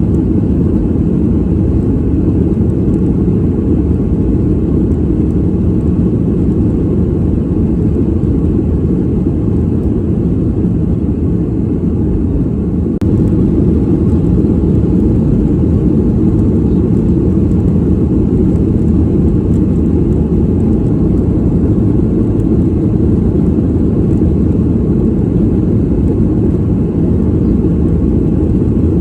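Airplane cabin noise in flight: a steady, deep rumble of engines and airflow, with a slight step up in level about 13 seconds in.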